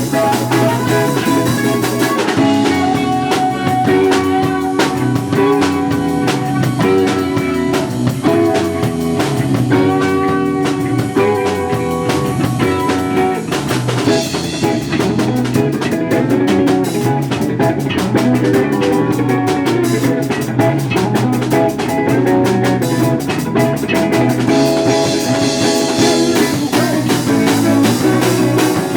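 A live rock band playing an instrumental stretch: electric guitars over a drum kit, with the cymbals opening up twice.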